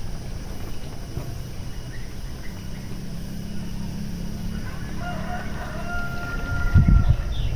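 A rooster crows once, a drawn-out call about five seconds in, over a steady low rumble, with a loud low thump near the end.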